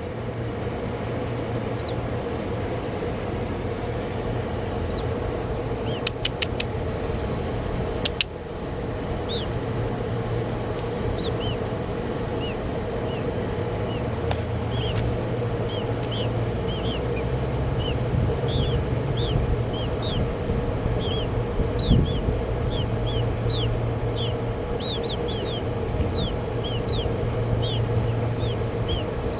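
Baby birds cheeping in short, high, downward chirps, sparse at first and coming thick and fast in the second half, over a steady mechanical hum. A few sharp clicks sound about six and eight seconds in.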